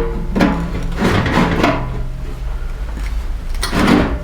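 Two rough scraping, sliding sounds, the first lasting over a second and the second shorter near the end, as parts are shifted and fitted by hand. A steady low hum runs underneath.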